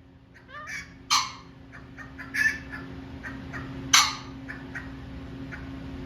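Male pheasant calling: three loud, harsh calls about a second and a half apart, with fainter short calls in between.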